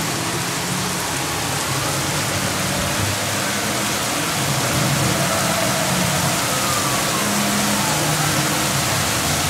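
Heavy thunderstorm downpour: rain pouring down in a steady, dense hiss.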